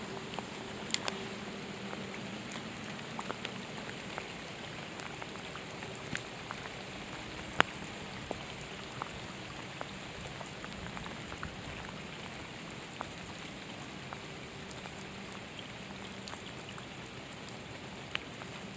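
Steady rain falling, a constant hiss with a sharp tick now and then, the loudest about seven and a half seconds in.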